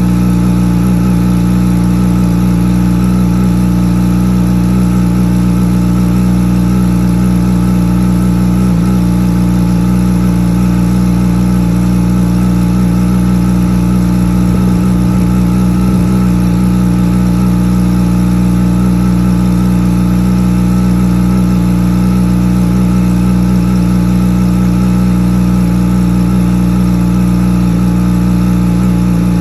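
Yamaha R6's inline-four engine idling steadily through a full Akrapovic exhaust, warming up after a cold start.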